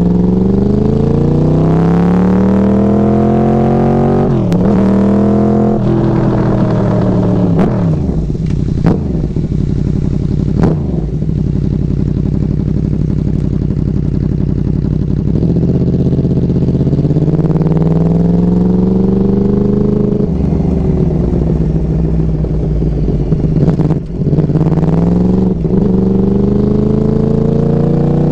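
Yamaha R1's crossplane inline-four through Hotbodies MGP Growler carbon slip-on exhaust cans, pulling up through the revs several times with sudden drops in pitch between pulls, and winding down between them. A few sharp cracks come while the revs fall.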